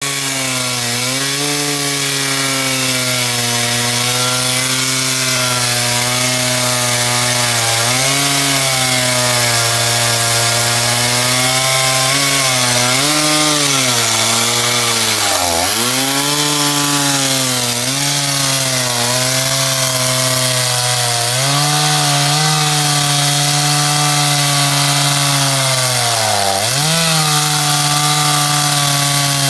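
STIHL GS461 two-stroke concrete-cutting chainsaw running at high revs, its pitch wavering and dropping sharply twice as the engine loads up and then recovers, over a steady hiss.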